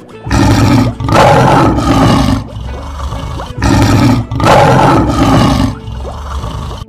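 Lion roar sound effect, played twice about three and a half seconds apart; each time a short opening growl runs straight into a longer roar of about a second and a half.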